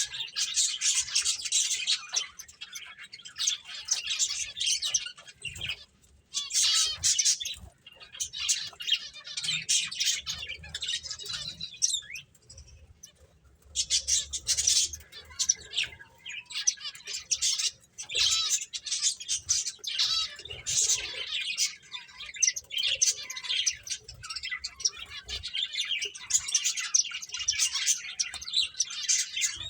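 Pet finches chirping and twittering in quick, overlapping high calls, with a couple of short pauses.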